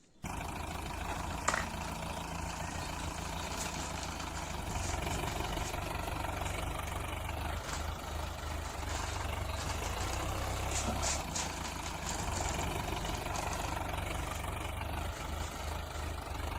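Engine sound of a tractor running steadily at low revs. It starts abruptly out of silence, like a sound effect laid over a toy tractor being driven, with a few faint clicks along the way.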